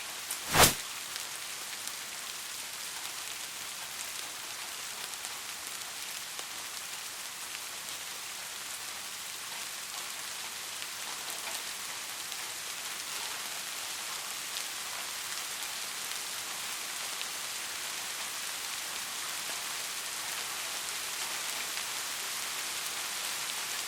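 Steady rain falling, an even hiss of many drops that grows slightly heavier near the end, with one sharp click about half a second in.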